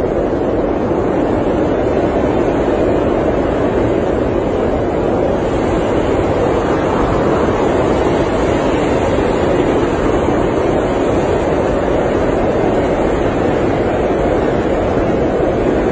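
Blizzard wind, a steady dense rushing noise without gusts or breaks.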